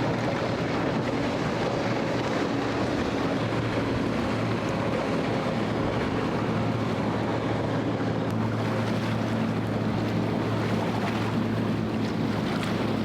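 Motorboat engine running with a steady drone, its tone shifting slightly about eight seconds in, over wind on the microphone and moving water.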